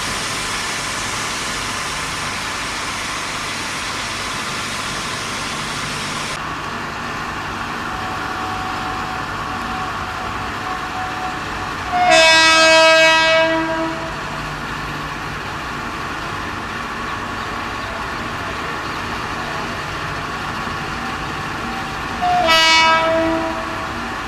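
Train horn sounding twice over a steady rumble: a blast of about two seconds near the middle and a shorter one near the end. A high hiss in the background stops about six seconds in.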